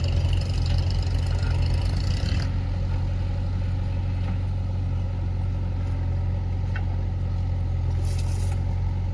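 Heavy diesel machinery engine running steadily with a low hum, busier for the first couple of seconds and then easing to a more even note about two and a half seconds in.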